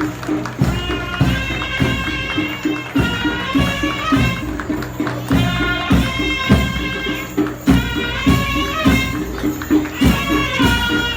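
Ottoman mehter band music: a shrill zurna melody over frequent davul drum beats.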